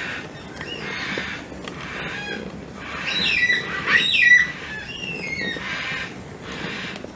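Water sloshing rhythmically in a plastic salad spinner as its lid mechanism is turned to agitate cloth pads in soapy water. Between about three and five seconds in there is a burst of squeaky, chirp-like gliding sounds, the loudest part of the stretch.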